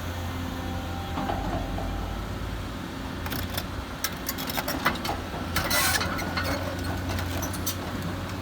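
Diesel excavator engine running steadily at a low drone. From about three seconds in it is joined by a series of metallic clicks and clanks, with a short hiss just before six seconds.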